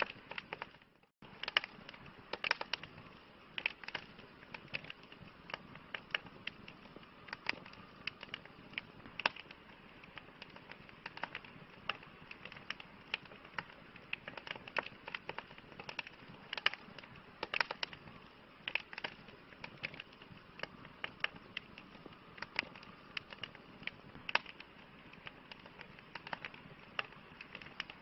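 Wood campfire burning, crackling and popping: irregular sharp snaps, several a second, over a steady soft hiss. The sound cuts out for a split second about a second in.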